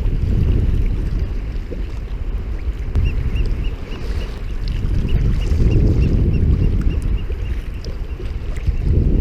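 Wind rumbling on the microphone and water washing around a sea kayak. In the middle comes a rapid run of short high chirps, about five a second, for a few seconds.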